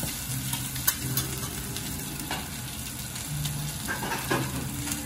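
Scale-on tilefish pieces and matsutake mushroom slices sizzling in oil on a hot teppanyaki griddle, the scales crisping. A few sharp clicks of the metal spatula and fork against the steel plate, the loudest about a second in.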